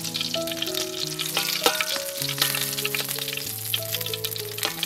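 Meat pieces frying in hot oil in a metal wok, with a steady dense crackle and sizzle. Soft background music with slow, sustained notes plays under it.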